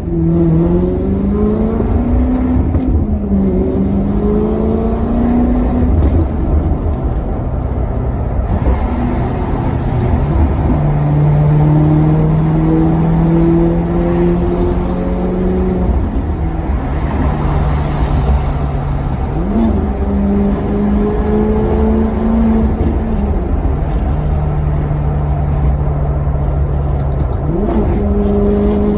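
Maserati Quattroporte Sport GT V8 accelerating, its note climbing through several gears and dropping back at each shift, with stretches where the engine holds a steady note, over a strong low rumble.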